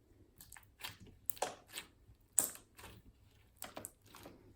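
Slime being squished and worked by hand, giving a run of small irregular crackles and pops.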